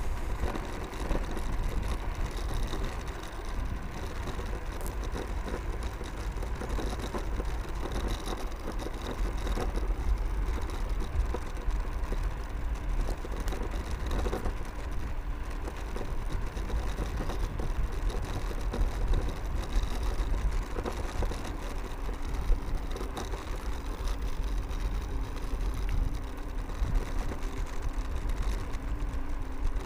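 Mercane electric kick scooter riding steadily along a road: wind rumbling on the microphone over tyre noise, with a faint steady whine from its electric motor.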